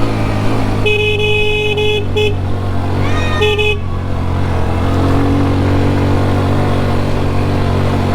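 Motorcycle engine running steadily while a vehicle horn sounds twice, a long blast of about a second then a short beep.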